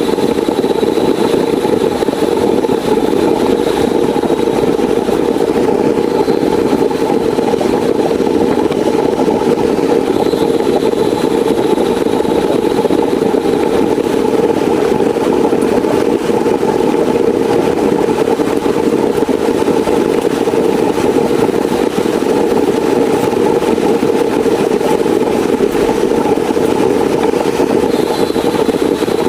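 Heavy rain falling steadily, a dense, even rush with no break, and a faint high whine that comes and goes.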